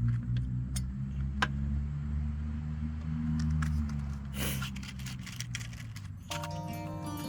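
A steady low hum with a few light clicks and jingles scattered through it. Acoustic guitar music comes in about six seconds in.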